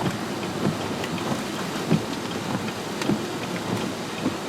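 Steady rain falling, with many small scattered drop hits over an even hiss.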